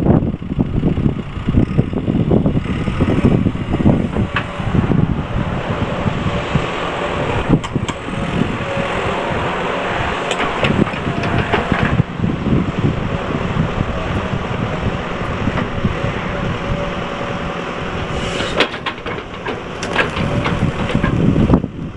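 Diesel engine of a 2012 JCB JS145 excavator running steadily, with a steady whine in the middle stretch and a few sharp knocks near the end.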